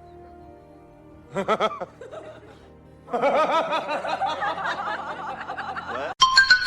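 Background music with laughter edited over it: a short burst of chuckling about a second and a half in, then a longer run of wavering laughter from about three seconds in, ending with a few steady musical tones near the end.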